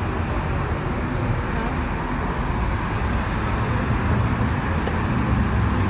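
Steady rumble of highway traffic from the nearby interstate, a constant wash of road noise with no single vehicle standing out.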